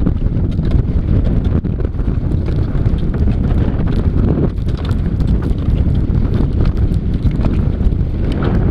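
Strong wind buffeting the microphone with a steady, loud rumble, with scattered faint clicks over it.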